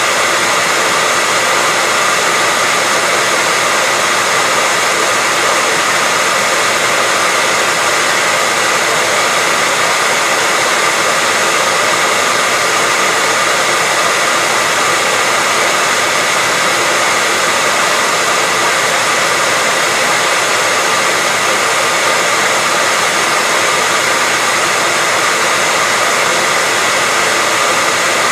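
Hair dryer running continuously at a steady speed: an even, unbroken rushing hiss of blown air with a faint steady whine from its motor and fan.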